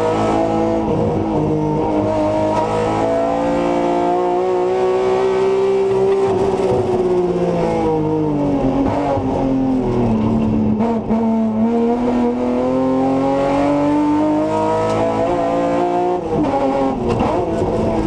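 BMW M3 hillclimb car's engine heard from inside its stripped, roll-caged cabin, pulling hard under load. Its pitch climbs for several seconds, sinks to a low point about eleven seconds in, then climbs again.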